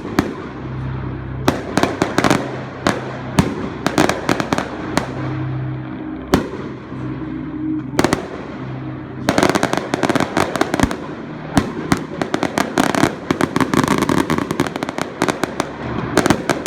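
Fireworks going off: separate sharp bangs every half second or so, then from about nine seconds in a dense, rapid crackle of bangs.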